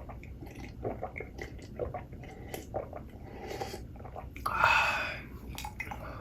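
Close-miked chewing of food, with many small wet clicks and mouth sounds. About four and a half seconds in comes a louder rushing noise that lasts under a second.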